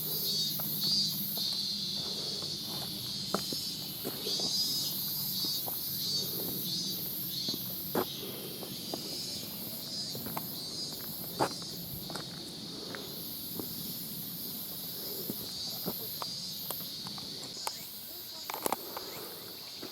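Insects shrill in a steady, fast-pulsing chorus. Irregular sharp clicks sound over it, typical of the clattering from the old video camera's loose monitor.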